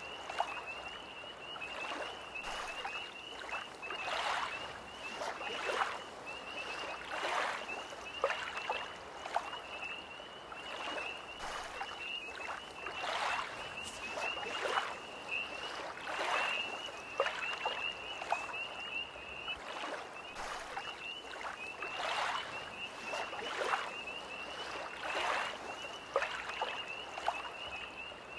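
Small lake waves lapping against the shore about every second or two, under a steady, high-pitched trilling chorus of tree frogs.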